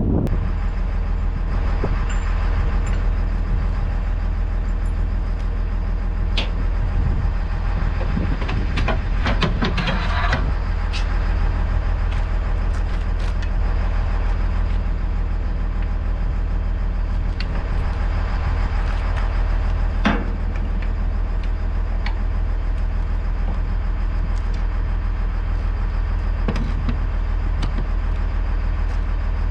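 Caterpillar 325 excavator's diesel engine running steadily, with a few sharp knocks and clanks over it, a cluster of them about nine to ten seconds in.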